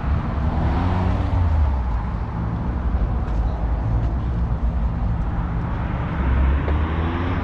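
A car engine running with a deep rumble over steady road and wind noise; the engine note climbs near the end.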